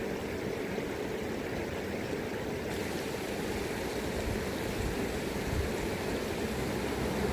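River current flowing in a steady rush, with a low wind rumble on the microphone growing stronger in the second half.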